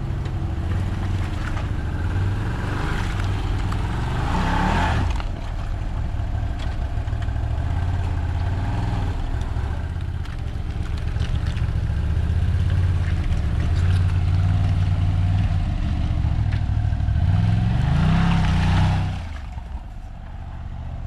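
Off-road side-by-side engines running, with a steady low drone and two rising revs, one about four seconds in and one near the end, as a machine throttles up on a rock ledge. After the second rev the engine drops back.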